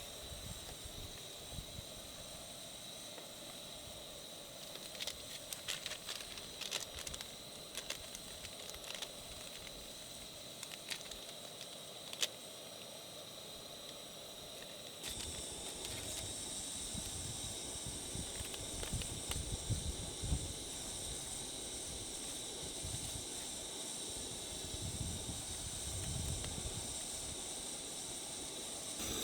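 Steady hiss of rain with scattered sharp ticks. About fifteen seconds in, the rain grows louder and fuller.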